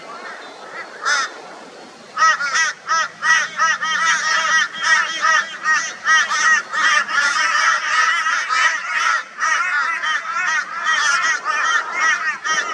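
A flock of crows giving loud, harsh, rapid calls, many birds overlapping in a continuous din from about two seconds in, after a single call just before. This is mobbing alarm calling aimed at a barn owl.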